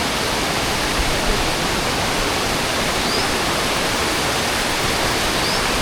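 Waterfall crashing down close by: a loud, steady rush of falling water, with two faint short chirps near the end.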